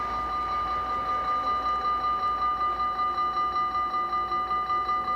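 Dutch railway level-crossing warning bells ringing rapidly, about four strokes a second, still sounding after the train has passed.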